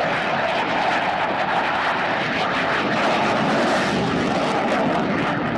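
Airplane flying a display, its engine noise loud and steady, brightest a little past the middle.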